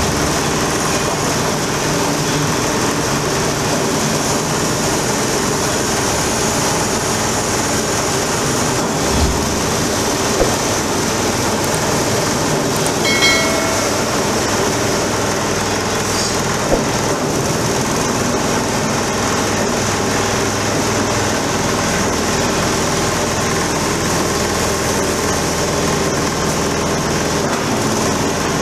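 Coconut husk shredding machine for cocopeat running steadily, its motor and cutting rotor making a continuous mechanical drone, with a few brief knocks and a short squeal about halfway through.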